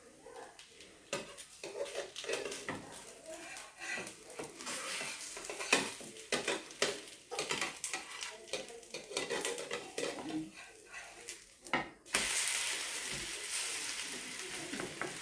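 Spoon and utensil clinks and scrapes against a pan and bowl, then about twelve seconds in a loud, steady sizzle starts suddenly: rice-and-semolina pancake batter frying on a hot pan.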